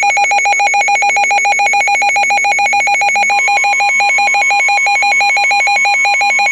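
Weather radio alert going off for a severe thunderstorm warning: a loud electronic alarm beeping rapidly, about ten beeps a second, and the steady NOAA Weather Radio 1050 Hz warning tone joining about halfway through.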